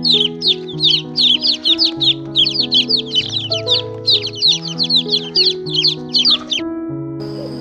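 Chicks peeping rapidly, a quick run of short falling chirps, over background music with sustained chords. The peeping stops near the end while the music carries on.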